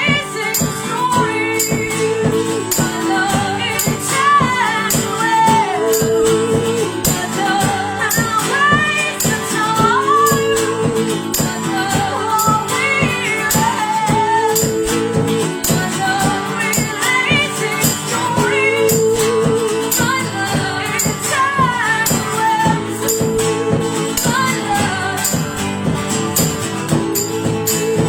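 A song played live: singing over acoustic backing, with a tambourine shaken and struck in a steady beat.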